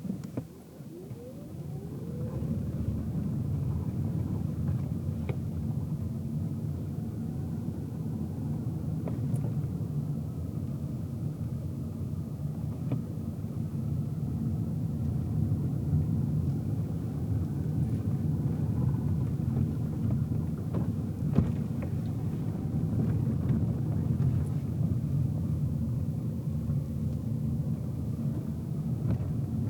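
Car cabin noise while driving: the engine and tyres make a low rumble. It swells about two seconds in as the engine note rises and the car picks up speed, then runs steadily, with a few faint ticks.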